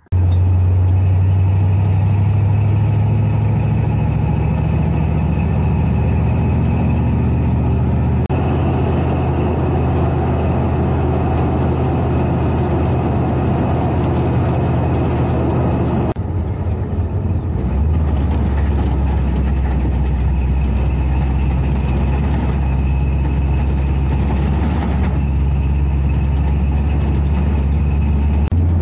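Old pickup truck's engine running with road noise while driving, a steady low drone that shifts pitch about eight seconds in and again around seventeen seconds in.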